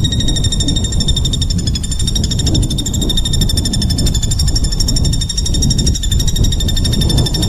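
Songbird's rapid, unbroken trill of very fast repeated high notes, the dense 'tembakan' song used as masteran for competition birds, over a steady low rumble.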